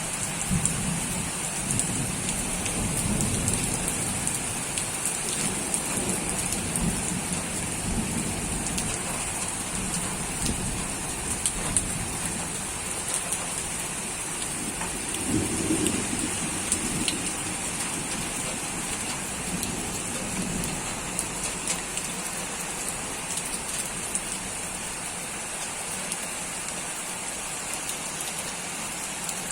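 Steady rain falling, an even hiss, with low rolling rumbles of distant thunder in the first few seconds and again about halfway through.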